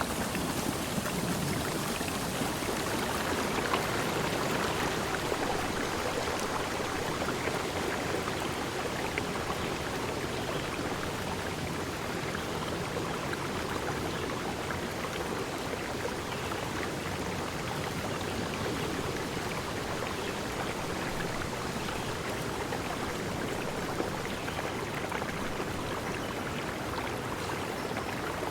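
Stream water flowing steadily, an even constant rush with no distinct calls or events.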